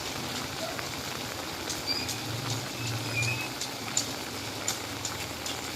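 Rainy street ambience: a steady hiss of light rain with scattered drip clicks over a low, steady engine hum that swells near the middle, and a few short high chirps.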